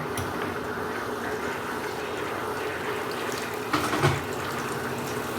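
Washing machine filling with water: a steady rush of water flowing into the tub, with a short knock about four seconds in.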